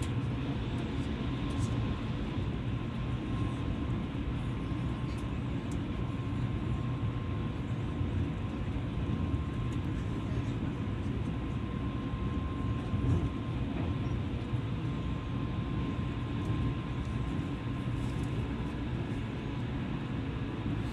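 Steady running noise of a passenger train heard from inside the carriage: a low rumble of wheels on the rails with a faint steady whine, broken by a few light clicks.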